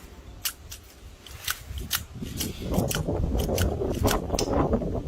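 A run of sharp, irregular clicks or snips, with a louder low rustling rumble coming in about halfway through.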